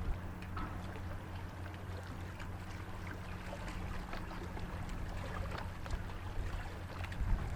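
Diesel engines of the Great Lakes freighter John G. Munson running with a steady low hum.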